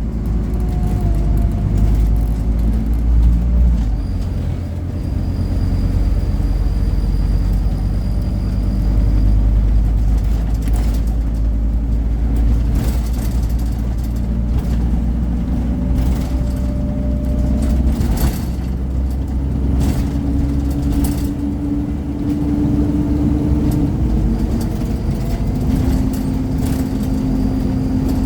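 Scania Omnicity single-deck bus under way, heard on board: its 230 hp diesel engine runs with a steady low rumble whose note shifts several times as the bus pulls along. Occasional knocks and rattles come through over the top.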